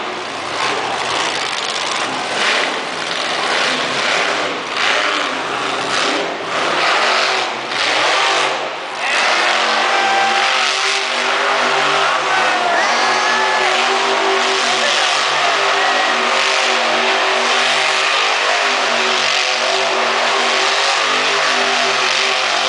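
Monster truck engine revving in repeated surges, then holding a steady, loud drone from about nine seconds in.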